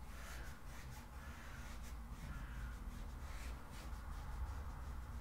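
Faint harsh calls of a bird, four or so about a second apart, over a steady low hum.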